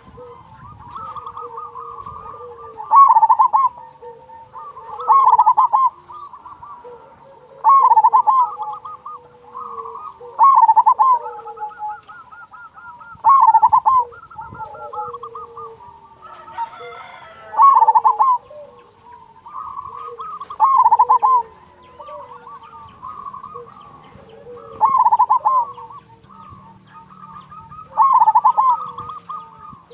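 Zebra dove (perkutut) song: about nine loud staccato cooing phrases, roughly one every three seconds, with quieter cooing between.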